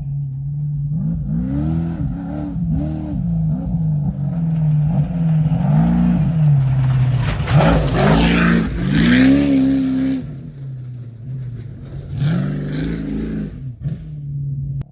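Desert race trophy truck engine revving up and down again and again as it races over rough ground. It gets loudest as it passes about halfway through, with a rush of noise and a held high rev, then revs in another burst near the end.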